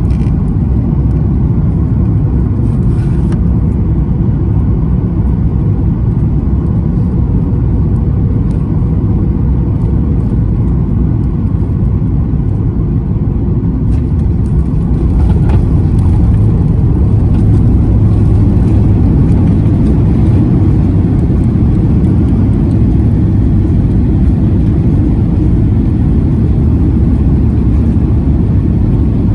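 Boeing 737 MAX 9 airliner noise during landing, a loud steady low rumble that grows louder about halfway through.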